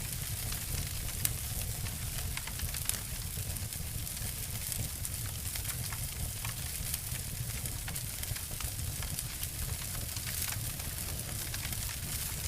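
Wood fire crackling and snapping: a dense scatter of small pops over a steady low rumble of flames, with two sharper snaps within the first three seconds.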